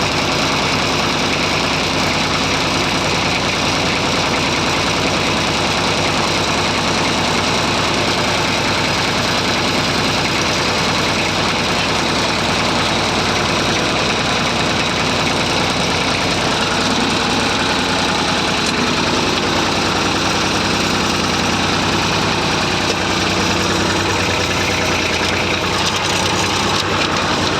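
Massey Ferguson 35 tractor engine running steadily, heard close up.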